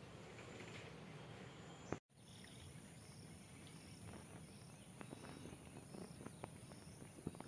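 Faint insect ambience: a steady high trill with short high chirps repeating about twice a second, with a few light clicks. The sound drops out for a moment about two seconds in.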